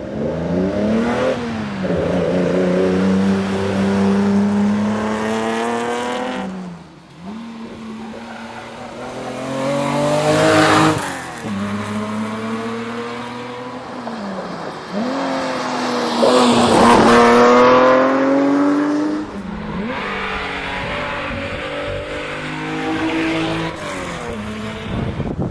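Datsun 240Z's straight-six engine driven hard, revving up and changing gear again and again: the pitch climbs, then drops sharply at each shift or lift off the throttle. Its loudest runs come near the middle and about two thirds of the way through.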